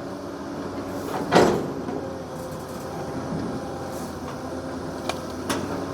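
Excavator engine running steadily while the machine works the soil, with one sharp knock about a second and a half in and a few lighter clicks near the end.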